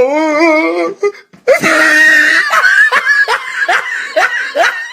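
People laughing hard: a wavering, drawn-out laugh, then after a short pause a loud, high-pitched burst of laughter breaking into short repeated bursts about twice a second.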